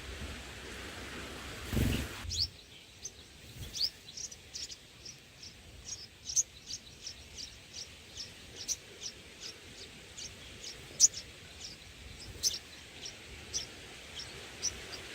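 Bulbuls chirping: short, high, falling chirps repeated two to three times a second. Before them a steady hiss with a low thump cuts off abruptly about two seconds in.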